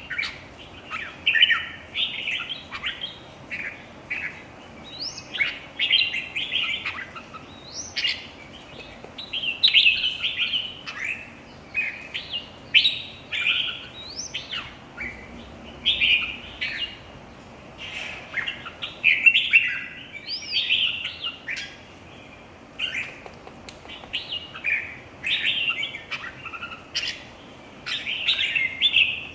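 Red-whiskered bulbuls singing competitively: short, clear warbled phrases, some with quick upward sweeps, following one another every second or so.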